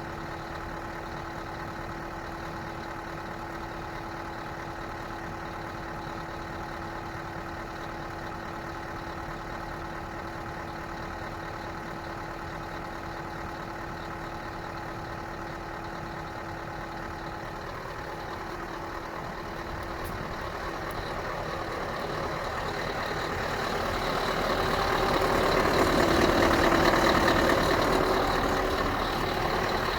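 Scania R560 truck's V8 diesel engine idling steadily, then from about 18 seconds in growing louder and noisier, peaking a few seconds before the end.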